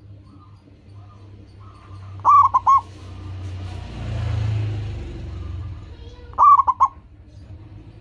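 Zebra dove (perkutut) cooing: two short bursts of three to four quick notes, about two seconds in and again near the end. In between, a low rushing noise swells and fades.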